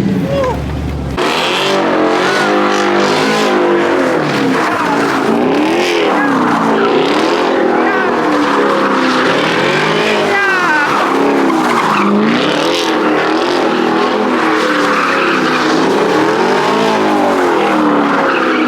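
A car spinning donuts: its engine revs up and down again and again while the tyres squeal and skid on the pavement.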